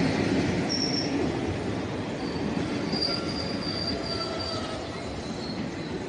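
A passing train's wheels squealing thinly on the rails over a steady rumble that slowly fades.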